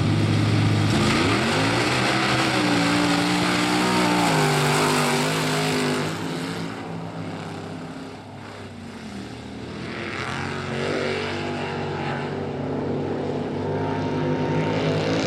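Mud-bog race truck's engine revving hard on a pass: a steady run-up, then the pitch climbs sharply about a second in, holds, and drops back around four seconds in. The sound fades as the truck pulls away and grows louder again near the end.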